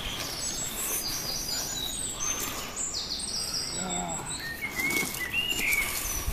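Songbirds singing: quick series of high chirps and short trills over a steady outdoor hiss.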